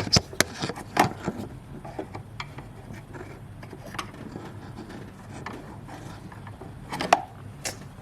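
Sharp plastic clicks and rubbing from the retaining clips of a fuse box assembly being worked loose by hand. There is a cluster of clicks in the first second and another near the end.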